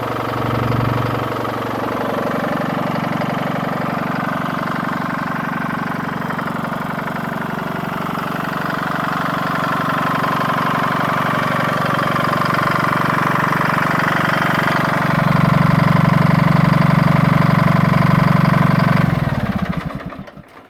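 1959 John Deere 435-D tractor's two-cylinder, two-stroke GM diesel engine running steadily, brought up in engine speed twice, louder from about three-quarters of the way in, then shut off near the end and winding down to a stop.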